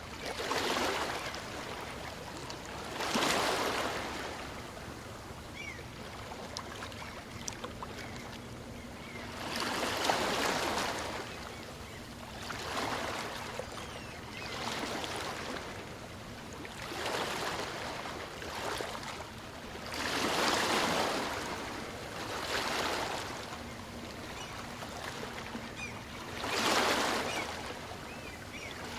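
Calm sea waves washing onto a beach: a hiss of surf that swells and fades again and again, about nine gentle surges.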